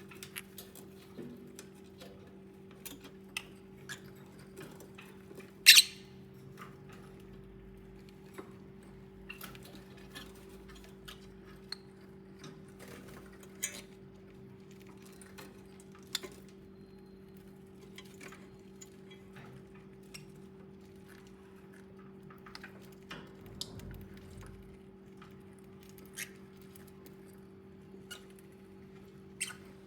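Pet lovebirds giving scattered short, sharp chirps and squeaks, one louder chirp about six seconds in, over a steady low hum.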